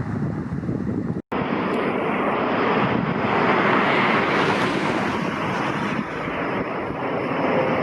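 Airplane passing overhead: a broad rushing jet noise that swells to its loudest about four seconds in and then eases off a little, with a brief dropout about a second in.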